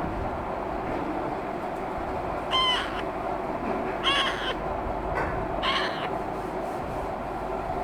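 Alexandrine parakeet (raw parrot) chick calling in short pitched squawks, four of them spaced a second or more apart, over a steady background hiss.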